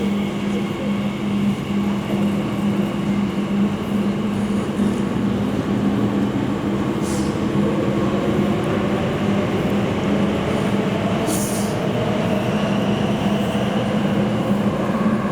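Electric underground train running with a steady hum. About halfway through, a motor whine rises in pitch as the train speeds up.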